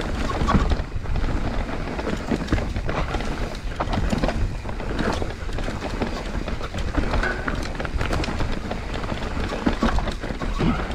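Mountain bike riding fast down a dry, dusty dirt trail: tyres running over loose dirt, with frequent clicks and knocks from the bike rattling over bumps, over a heavy rumble of wind on the microphone.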